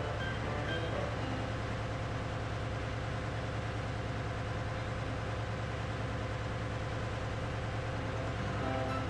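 Diesel machinery in a ship's engine room running steadily: a low, even drone with a fast, regular pulse.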